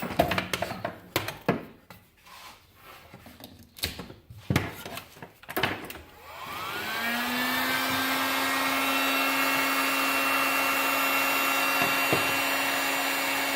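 Scattered knocks and clicks of handling, then about halfway through an electric heat gun switches on: its fan motor whines up in pitch over about a second and settles into a steady hum with a rush of blown air.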